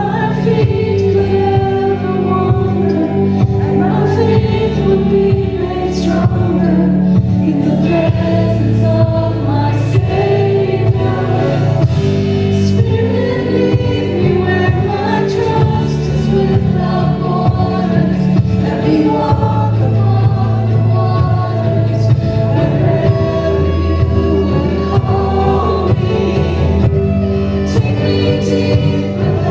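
A worship song sung by a group of singers with a live band behind them: a steady bass line, held chords and cymbal hits every few seconds.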